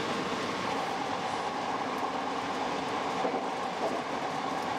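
Hankyu 6300-series electric train running at speed between stations: a steady rumble of wheels on rail with a whine that dips slightly in pitch about a second in.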